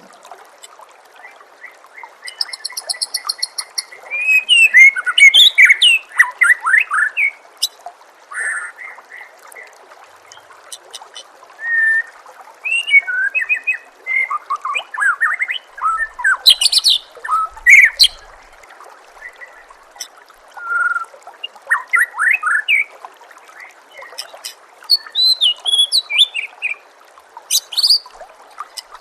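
White-rumped shama (murai batu) singing varied phrases of loud whistles, fast trills and rapid notes, in bursts separated by short pauses, over a steady background of trickling water.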